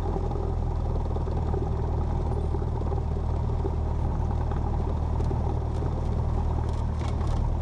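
Cessna 172P's four-cylinder Lycoming piston engine and propeller running at low power while the plane taxis onto the runway for takeoff, a steady low drone with no change in pitch.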